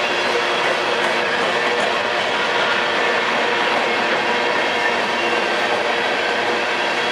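Freight train running past, its wheels and cars giving a steady, loud rattle on the track.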